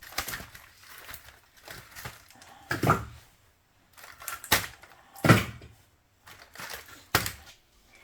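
Irregular knocks and clunks of objects being handled, the loudest about three and five seconds in.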